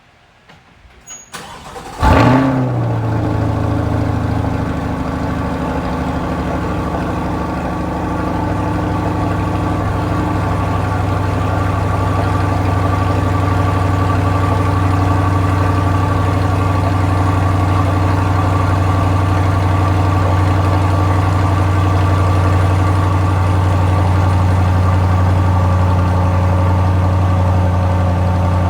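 Chevrolet Corvette C8's V8 cold start. The engine catches about two seconds in with a loud flare-up, then settles into a steady, high cold-start idle.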